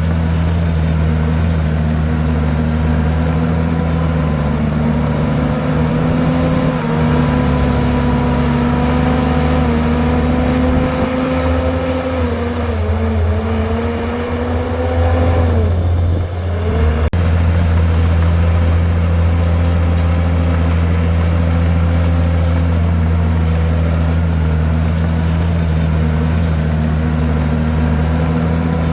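Komatsu bulldozer's diesel engine running steadily. About halfway through its speed sags and drops briefly, then picks back up to its earlier pitch.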